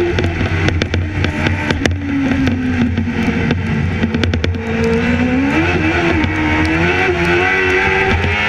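Racing sidecar outfit's engine, heard from on board, running hard on a wet track: the revs fall over the first couple of seconds with a run of sharp pops, hold low for a moment, then climb again about halfway through.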